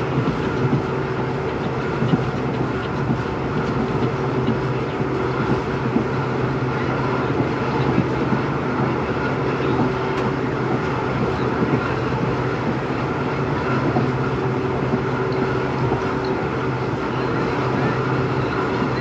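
EMD WDP4B diesel-electric locomotive's 16-cylinder two-stroke engine humming steadily, a low, even drone with a few constant tones and no horn.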